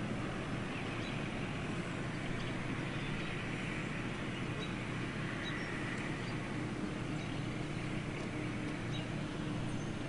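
Antique tractor engine running steadily, with scattered faint short ticks above it.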